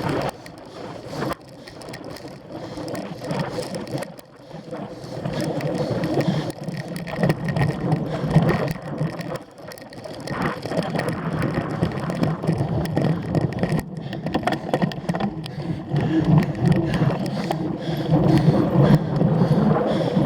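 Cyclocross bike being ridden over rough ground, its frame and chain rattling with many small knocks and clicks, louder in the second half.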